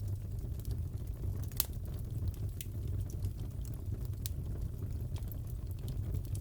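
Wood fire crackling in a fireplace: irregular sharp pops and snaps over a steady low rumble of the burning, with the loudest pop about a second and a half in.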